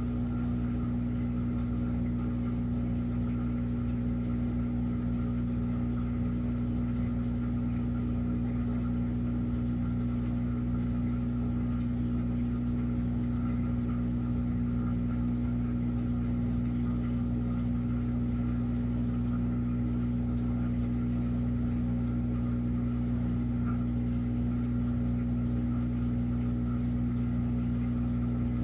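Washing machine running, with a steady, unchanging motor hum.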